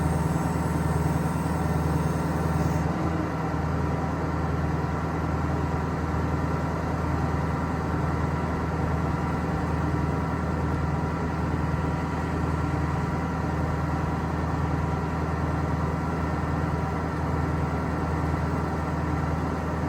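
Ford Power Stroke turbo diesel engine of a bucket truck running steadily, powering the hydraulics while the articulating boom is operated.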